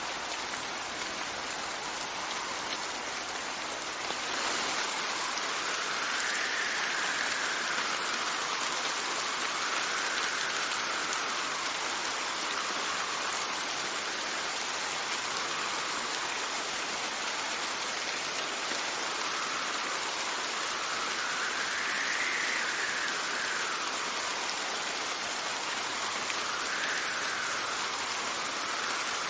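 Steady heavy rain with gusting wind, which brings a soft whistling tone that rises and falls in pitch every few seconds.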